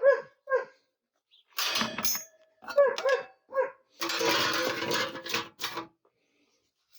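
Metal clinking and scraping as lawn tractor engine parts are handled on a workbench: a few ringing metallic clinks, and about four seconds in a longer rough scrape.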